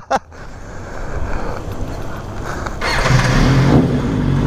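Motorcycle engine starting up about three seconds in and settling into a steady idle, after a few seconds of lower rumbling.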